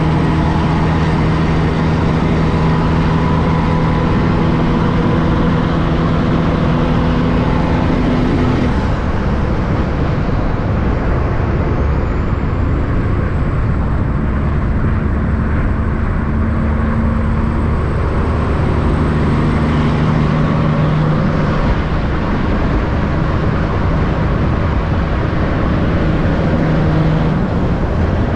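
Heavy trucks' diesel engines running and passing over constant road traffic noise. The engine note changes about a third of the way in, and another engine comes through later.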